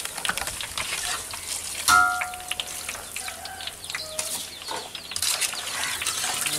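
Boondi frying in hot oil in a kadai, a steady sizzle, with a perforated metal ladle stirring and lifting the fried drops out. There is a loud knock about two seconds in, and chickens cluck now and then in the background.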